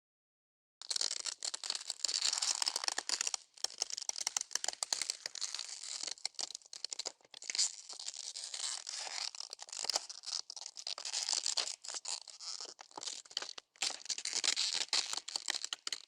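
A dense crackling and crinkling noise of many small snaps over a hiss. It starts about a second in, runs unbroken with small surges, and cuts off suddenly near the end.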